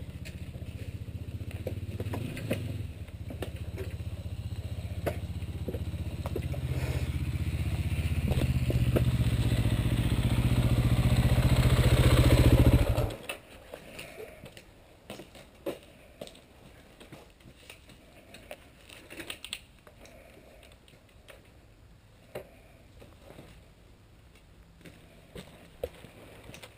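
KTM dirt bike engine running as the bike is ridden, growing steadily louder for about twelve seconds, then shut off abruptly. Afterwards only faint scattered clicks and knocks remain.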